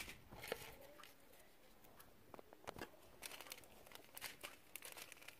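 Faint, scattered crinkling and light clicks from hands handling slime and small foam pieces, a few more of them in the second half.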